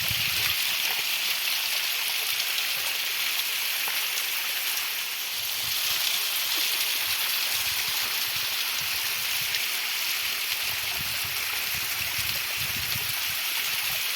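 Water of a stream flowing steadily, an even rushing sound.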